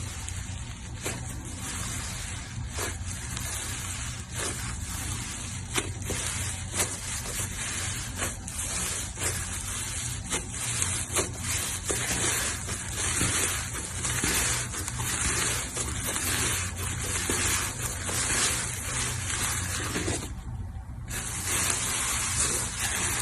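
Slime being squeezed and worked by hand, a continuous wet squishing with many small crackling clicks and pops.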